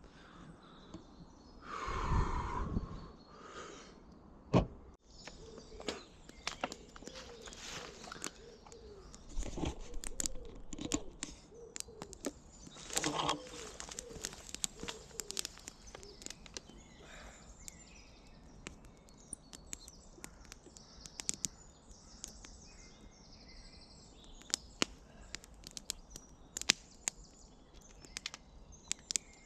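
Woodland birds calling and singing, with many small sharp clicks and crackles throughout and a louder brief rush about two seconds in.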